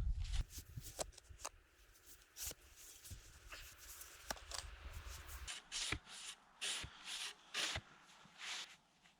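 Irregular sharp clicks and snaps, then a few short rustling scrapes in the second half: something being handled by hand.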